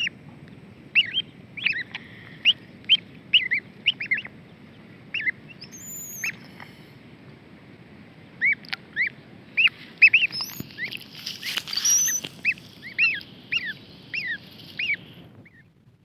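Ducklings peeping, a long run of short high chirps coming a few to the second, with a short rush of noise about eleven seconds in; the peeping cuts off suddenly near the end.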